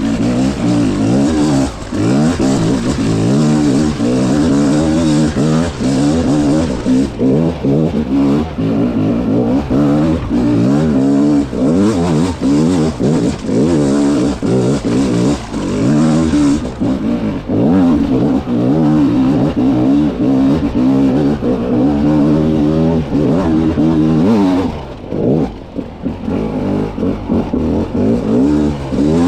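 300cc two-stroke dirt bike engine under hard riding, revving up and down constantly as the throttle is worked over rough terrain. It drops off briefly about 25 seconds in, then picks up again.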